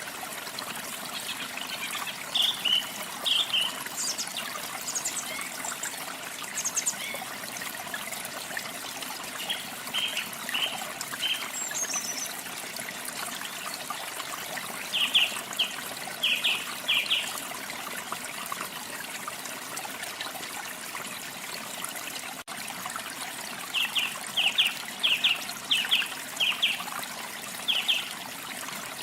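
Steady rush of falling water with songbirds chirping over it: several clusters of three to five quick high notes, and a few thinner, higher calls.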